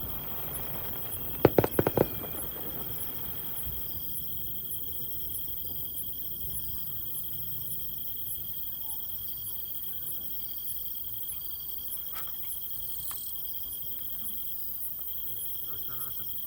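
Insects chirping steadily in a high, evenly pulsing trill. About a second and a half in, a quick run of four sharp firework bangs cuts through.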